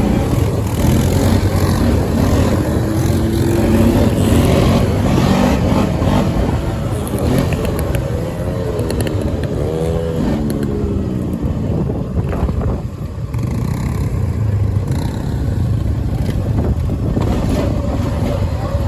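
Dirt bike engine running hard, its revs rising and falling, with high revving near the start and again about halfway through. The engine is revved so hard that onlookers fear it will blow up.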